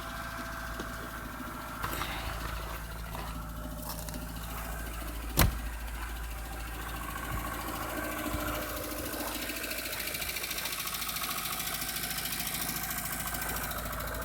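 1988 Mitsubishi Galant's engine idling steadily just after a cold start in −18 °C frost. A single sharp click sounds about five and a half seconds in.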